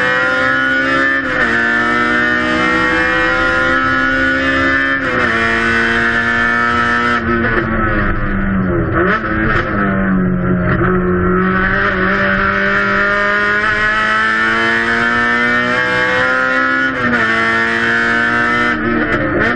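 Honda K-series four-cylinder race car engine pulling hard, its pitch climbing steadily and dropping sharply at upshifts about a second in, around five seconds in and near seventeen seconds. Around eight to eleven seconds the revs fall away, then climb again.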